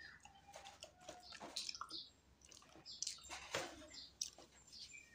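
Faint wet chewing of a mouthful of banana: a run of small irregular clicks and squishes from the mouth.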